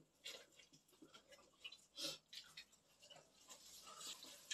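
Faint chewing and mouth sounds of people eating jokbal (braised pig's trotters), with small scattered clicks and smacks and one louder click about two seconds in.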